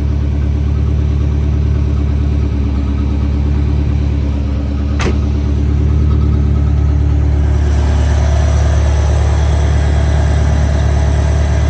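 Chevrolet Corvette engine idling roughly, the idle the owner complains of in drive or reverse. A single sharp click about five seconds in, and the engine note grows a little louder and fuller from about six seconds on.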